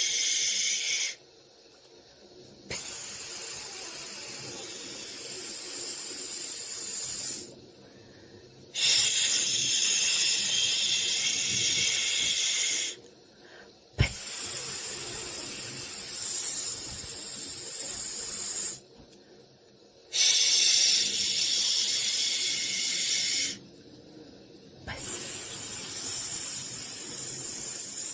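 Shushing for a baby: a run of long hissing 'shhh' sounds, each lasting three to five seconds, with a pause of about a second and a half between them.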